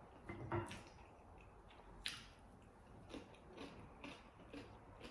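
Close-miked eating: chewing with scattered soft clicks and crunches at uneven intervals, one sharper click about two seconds in.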